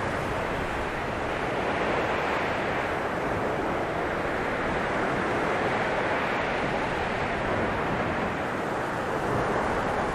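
Blizzard wind blowing in a dense, steady rush that swells and eases slowly.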